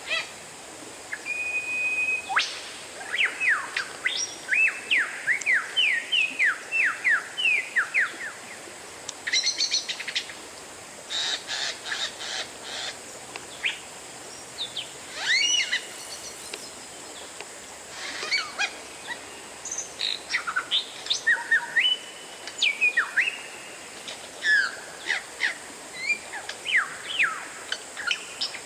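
Oriental magpie-robin (kacer) singing a varied song of short whistled notes that glide up and down, mixed with quick sharp chips, in phrases broken by brief pauses.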